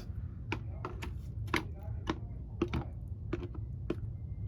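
Light clicking taps about twice a second over a low rumble: plastic Breyer model horses being handled and tapped along a hard surface as if walking.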